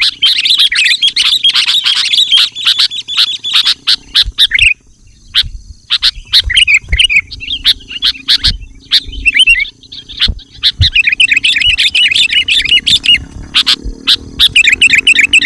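Sooty-headed bulbuls chattering and calling rapidly in dense runs of short notes, easing off briefly about five seconds in and then taking up again.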